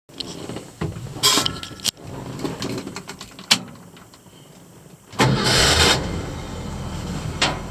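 1966 Ford F100 pickup cold-starting. A few clicks and knocks come first, then the engine fires about five seconds in with a short loud rev and settles into a steady idle.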